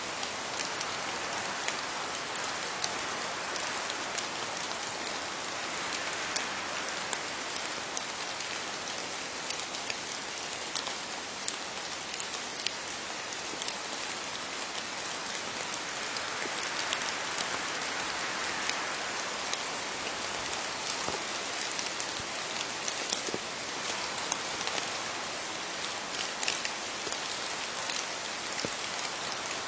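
Steady rain falling on leaves: an even hiss of rainfall with many separate drops pattering and ticking sharply on the foliage.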